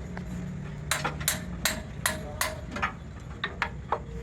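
Hammer striking metal in a run of sharp, ringing blows, about two or three a second, turning to lighter taps in the last second or so. A steady low hum runs underneath.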